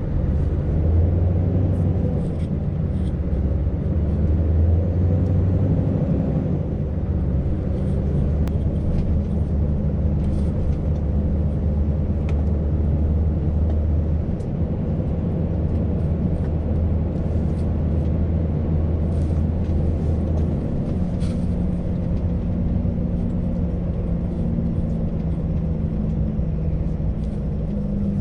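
Scania truck's V8 engine and road noise heard from inside the cab while driving, a steady low drone. The engine note changes pitch a few times.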